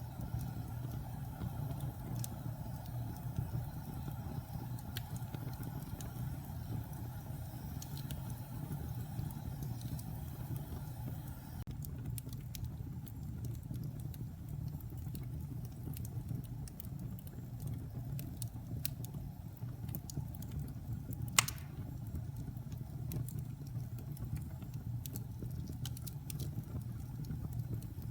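Wood fire burning in a fireplace: a steady low rumble of flames with scattered small crackles, and one louder pop about three-quarters of the way through.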